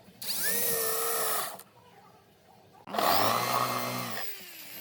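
Power tool motor running in two bursts of about a second and a half each, its pitch wavering as it works; after the second burst it winds down with a falling whine.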